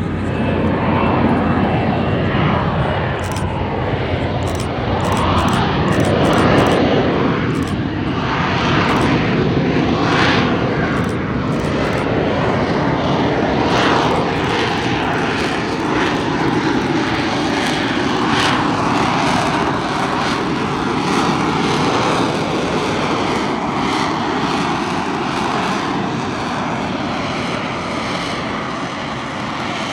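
Aircraft engine noise from a plane flying past, a continuous roar with slowly sweeping changes in tone. It is loudest about six or seven seconds in, then eases off gradually.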